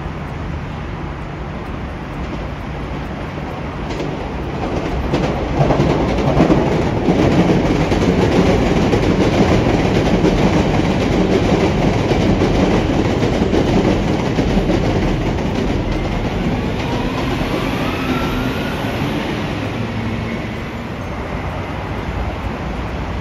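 A train passing close by, its rumble and wheel noise building about five seconds in and fading away near the end, with a rising whine late in the pass.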